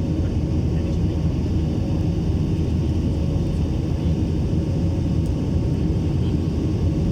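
Steady low rumble of an airplane's engines, unchanging throughout, with a faint steady hum above it.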